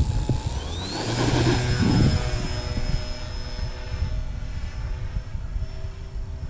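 Twin electric motors and propellers of an E-flite EC-1500 RC cargo plane spooling up for takeoff with a steeply rising whine, then holding a steady high whine that slowly fades as the plane pulls away.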